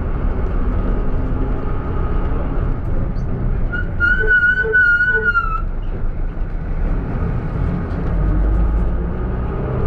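Minibus brake pads squealing as it brakes: one high, slightly wavering whistle of about two seconds, a few seconds in, over the low rumble of engine and traffic.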